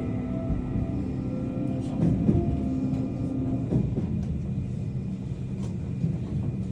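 Train running, a steady low rumble with faint humming tones and a few light clicks, slightly louder about two seconds in.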